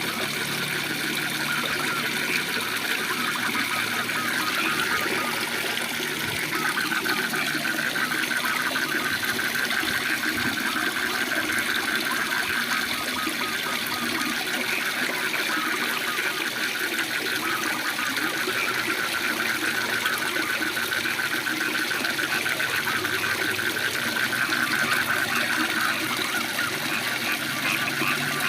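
Waterfall rushing steadily, with frogs calling in a fast pulsing trill over it that swells and fades twice.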